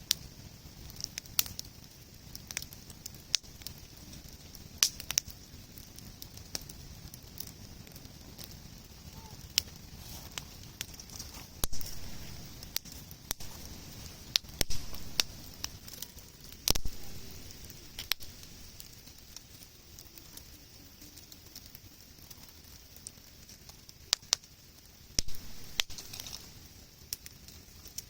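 Wood campfire crackling, with irregular sharp pops and snaps and a few louder clusters of snapping.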